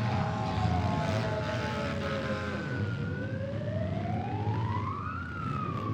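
Demolition derby car engines running, one revving: its pitch sinks slowly, climbs to a peak about five seconds in, then drops again.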